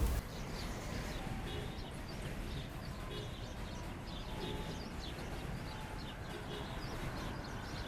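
Small birds chirping now and then over a steady outdoor background hum.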